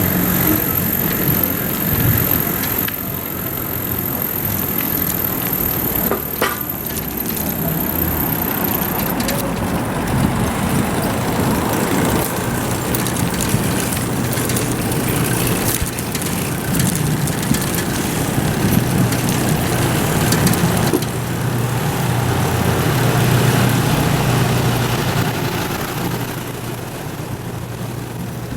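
Steady rush of wind and road noise from a bicycle ridden through city streets, with a motor vehicle's hum standing out for a few seconds in the second half.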